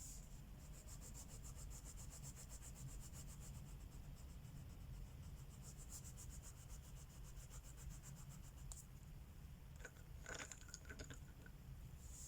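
Faint scratching of a wax crayon on paper in rapid back-and-forth coloring strokes, stopping about nine seconds in. A short cluster of small knocks follows about ten seconds in.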